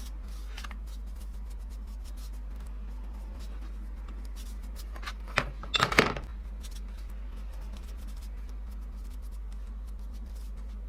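A short clatter of sharp clicks and knocks, like small objects being handled, about five to six seconds in, over a steady low hum.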